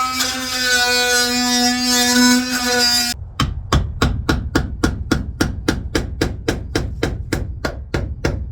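A small cordless power tool motor running with a steady whine for about three seconds, then stopping abruptly; after that, rapid, evenly spaced hammer blows, about three a second.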